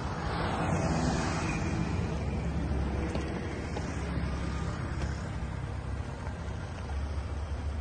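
A Toyota Prado's 4.0-litre V6 petrol engine idling steadily, with a rush of wind noise on the microphone that is strongest in the first couple of seconds.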